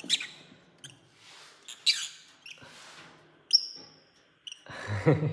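Parrots giving short, high, squeaky chirps, a few scattered calls with faint clicks between, and a lower, harsher call near the end.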